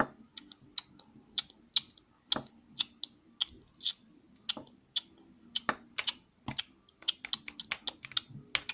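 Small plastic toy figures clicking and tapping irregularly on a hard surface, several sharp taps a second, as they are bounced along in play.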